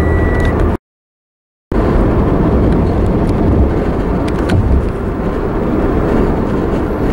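Steady road and engine noise of a car driving, heard from inside the cabin. A high electronic beep ends about half a second in, and the sound drops out entirely for about a second shortly after, then the driving noise resumes.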